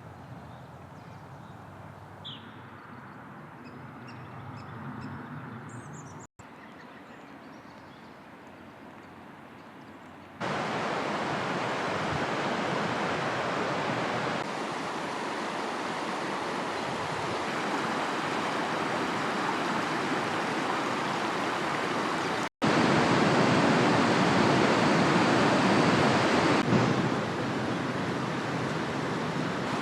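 Steady rushing outdoor noise, such as running water or wind, in several joined stretches. It steps up sharply in loudness about 10 s in and again about 23 s in. A few faint short bird calls come through in the quieter opening part.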